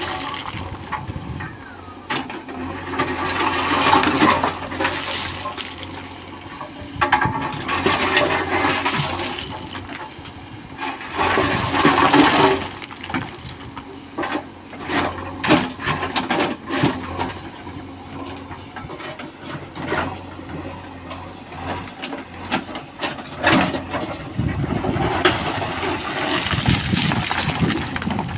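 Stones pouring and clattering in repeated rushes, with many sharp knocks of rock on rock and metal, over a diesel engine running steadily.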